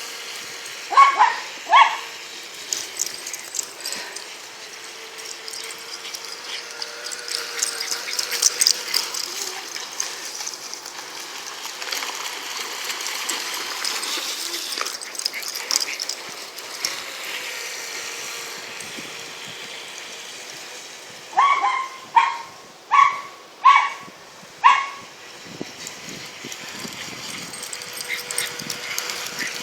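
Dogs barking: two barks about a second in, then a quick run of five barks a little past the middle, over a steady rushing noise.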